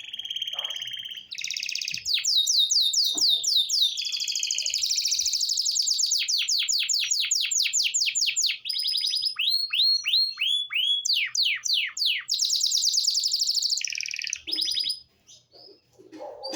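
Belgian canary singing a long, unbroken song of rapid trills and series of quick falling slurred notes, stopping about fifteen seconds in.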